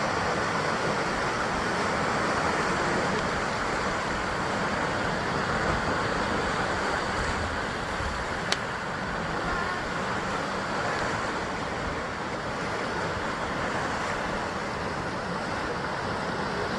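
Sea waves washing against a basalt rock shore, a steady rushing wash with no distinct single breakers. A single sharp click about halfway through.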